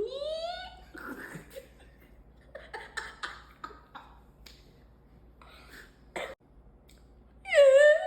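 A person making silly vocal sounds with their mouth and throat, with laughter: a rising pitched cry at the start, scattered short noises in the middle, and a loud pitched cry near the end.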